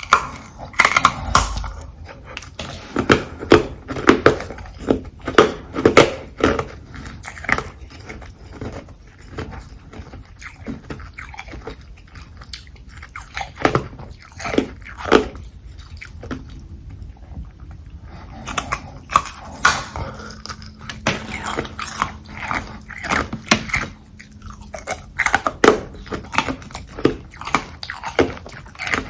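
Carbonated ice being bitten and chewed right at the microphone: a long run of sharp, crisp crunches, thinning out for a few seconds in the middle, then coming thick and fast again.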